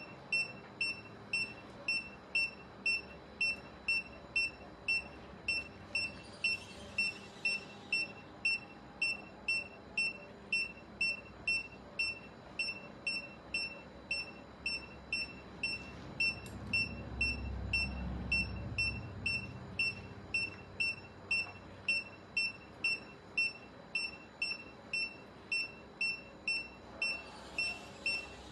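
Surgical patient monitor beeping steadily, short high beeps about three every two seconds, in step with the anaesthetised cat's pulse. A faint low rumble swells up and fades about two-thirds of the way through.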